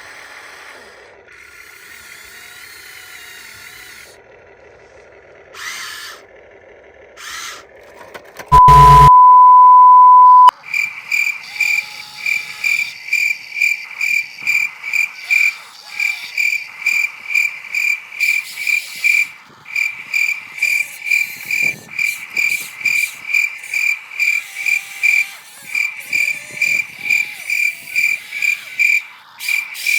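A loud, steady, single-pitch beep for about two seconds, followed by a rapid, evenly repeating chirping call about twice a second that carries on to the end.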